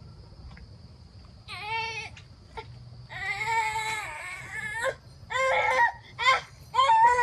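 A young child's voice in a series of long, high-pitched, wordless cries, starting about a second and a half in and getting louder and more frequent toward the end.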